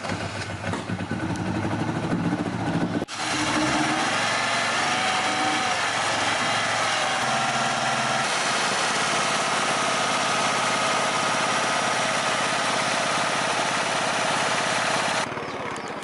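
A small engine running, with an even pitch. About three seconds in, the sound cuts abruptly to a louder, steady, noisy drone with a faint high whine, which holds until just before the end.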